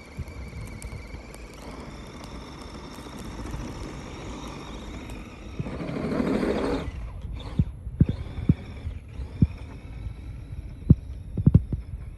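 The electric motor of a Redcat Gen7 RC rock crawler whines faintly as it pushes through deep snow. The sound swells to its loudest about six seconds in, then cuts off, and several sharp knocks follow.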